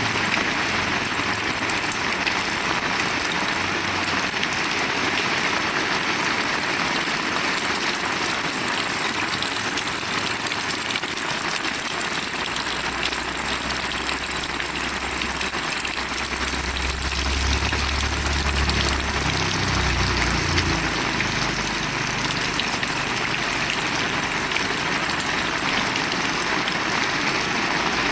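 Heavy rain falling steadily. A low rumble joins it about halfway through and lasts for several seconds.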